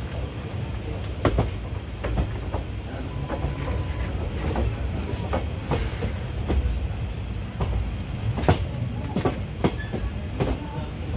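Passenger train coach running along the track: a steady low rumble of the wheels, with irregular sharp clacks as they pass over the track joints.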